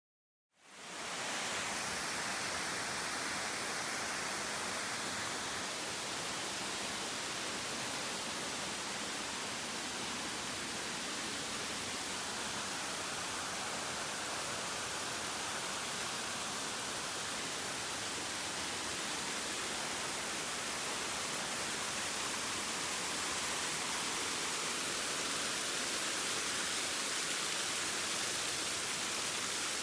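Waterfall rushing steadily: an even hiss of falling water that fades in within the first second and holds without change.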